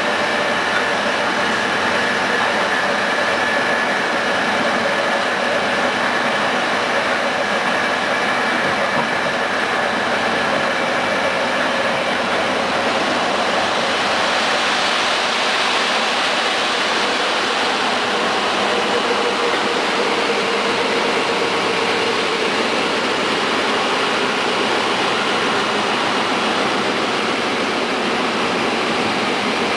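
Passenger train carriage running along the track at speed, heard from inside the coach: a steady rolling rumble and hiss of wheels on rails, with faint steady whining tones that fade out about halfway through.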